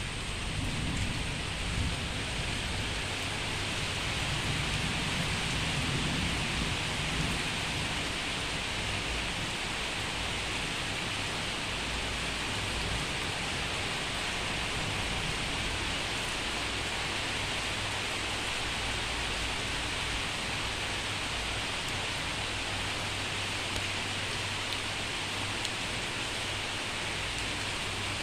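Steady heavy rain falling, with a low thunder rumble during the first several seconds.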